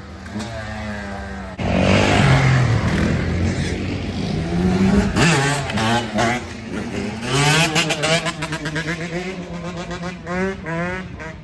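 Several motorbike engines revving, their pitch rising and falling again and again. The sound jumps louder about one and a half seconds in.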